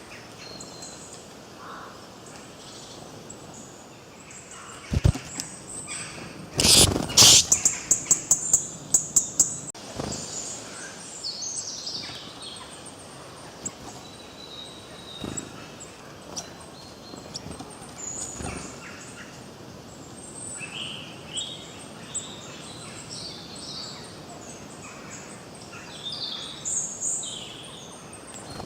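Several songbirds chirping and trilling over a faint outdoor hiss. A loud burst about seven seconds in is followed by a quick run of sharp clicks.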